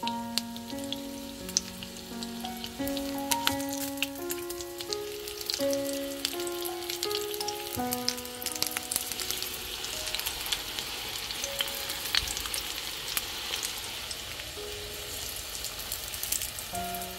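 Breaded zucchini halves shallow-frying in hot oil in a pan, a steady sizzle full of fine crackles and pops. A simple background melody plays over it, clear in the first half and thinning to a few notes later.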